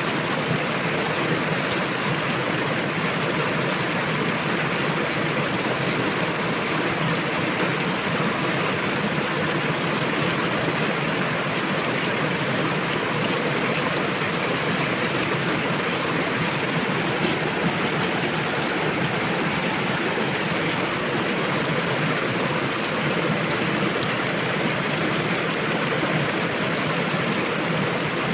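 A fast river rushing steadily over rocks, a constant full-range rush of water.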